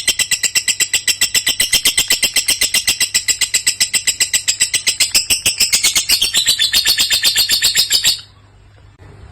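Lovebird singing a long unbroken burst of rapid, shrill chattering notes, about ten a second, which stops abruptly a little after eight seconds in.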